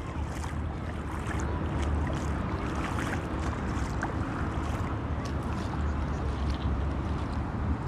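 Seashore ambience: a steady wash of shallow seawater running along the shore, with wind rumbling on the microphone.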